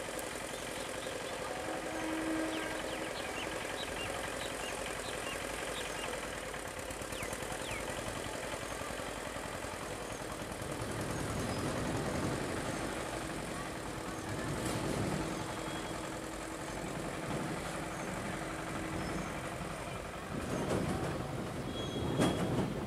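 EMU electric local train approaching along the track: a low rumble that grows louder from about halfway, with the wheels clattering over the rails near the end as the train draws close.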